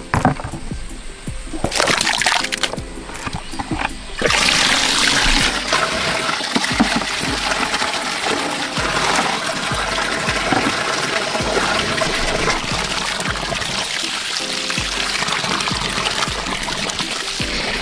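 Water running and splashing, coming in suddenly about four seconds in and continuing steadily, over background music.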